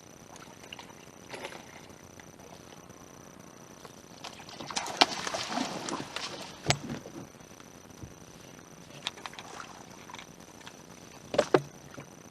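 Knocks and rustling of gear being handled in a fishing boat: scattered light knocks, a few seconds of rustling about four seconds in, a sharp knock about seven seconds in, and two loud knocks near the end.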